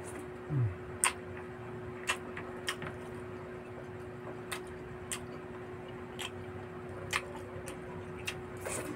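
Close-up eating sounds of a person chewing pork barbecue and rice: sharp, wet mouth clicks and lip smacks at irregular intervals, with a short low falling 'mm' about half a second in. A steady low hum runs underneath.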